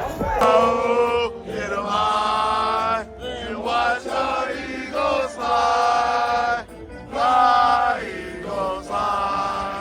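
Music with several voices singing long held notes in short phrases, choir-like.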